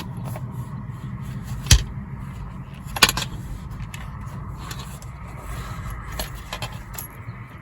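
Handling of a traveler's notebook and its packaging: light rustling and small clicks, with two sharp knocks about two and three seconds in, over a steady low rumble of wind and passing cars.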